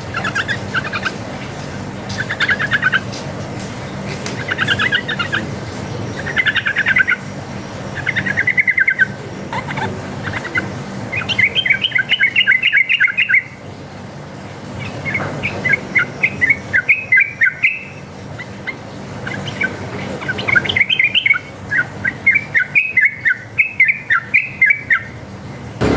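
Yellow-vented bulbul singing: a string of short, fast, bubbling chattering phrases about a second each, repeated with short gaps, over a steady low hum.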